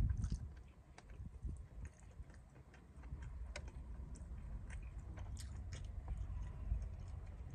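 Close-up chewing and biting of a leftover fried chicken wing that is no longer crunchy: scattered soft mouth clicks over a steady low rumble.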